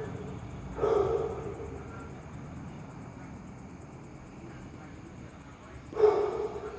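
House gecko (cicak) giving an unusual call twice: one call about a second in and another near the end, each short and fading.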